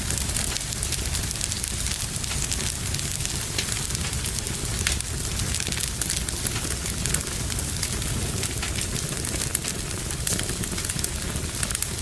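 Fire burning in a fireplace: a steady low rumble of flames with frequent small crackles and pops.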